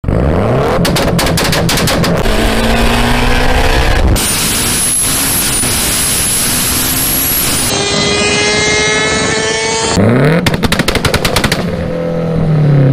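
Turbocharged Mitsubishi Lancer Evolution X engine under hard acceleration in several cut-together takes: revs rising with rapid exhaust pops near the start, a stretch of loud rushing noise with a high steady whine, revs climbing through the gears, another string of rapid pops about ten seconds in, then revs falling away.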